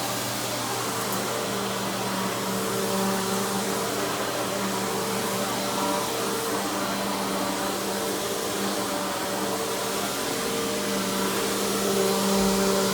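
Simplicity Symmetry Deluxe upright vacuum's 12-amp single-stage motor running steadily, a constant rushing drone with a humming tone, getting a little louder near the end.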